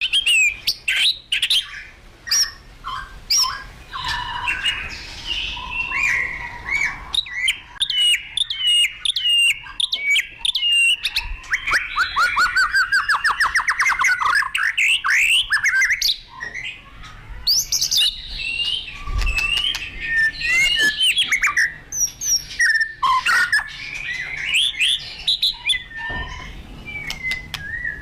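White-rumped shama (murai batu) singing loudly and continuously in agitated, fighting song: a varied run of whistles, chatters and sharp clicking notes. About twelve seconds in there is a fast trill of rapidly repeated notes.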